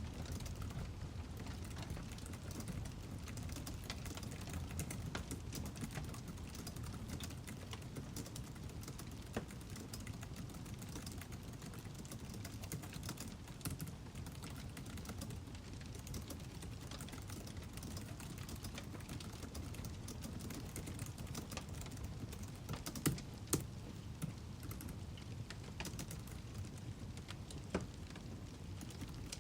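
Firewood burning, crackling: irregular small pops and ticks over a steady low rumble, with a few louder snaps near the end.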